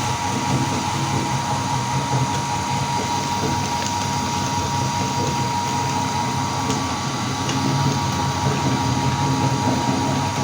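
Meat grinder motor running steadily: a constant hum with a steady high whine.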